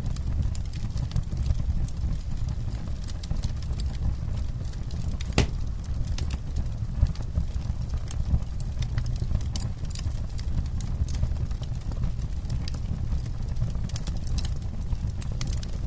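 Campfire crackling: wood snapping and popping irregularly, with one sharper pop about five seconds in, over a steady low rumble.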